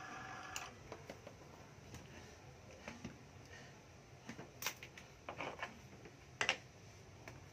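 Cordless drill's motor running and stopping about half a second in, followed by scattered clicks and knocks of the drill being handled, with two sharper knocks near the end.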